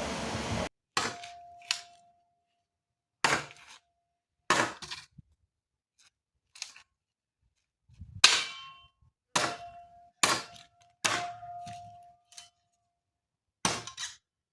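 Wooden sticks being chopped with a metal-bladed tool: about a dozen sharp, irregularly spaced strikes, several leaving a brief metallic ring.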